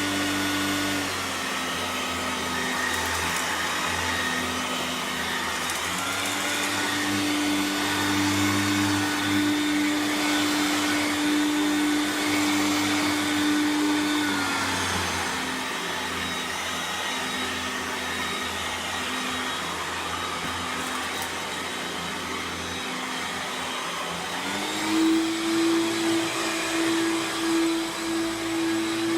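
1994 Hoover Turbo Power 2 Autosense upright vacuum running on the floor. The motor's pitch steps down and up several times: it drops about a second in, rises around six seconds, drops again around fifteen seconds and climbs higher near the end, as the Autosense shifts motor power.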